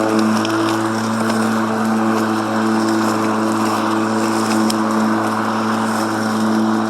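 Ego 21-inch 56-volt battery push mower running at a steady speed as it cuts tall grass: a constant motor-and-blade hum over a whirring rush, with a few light ticks.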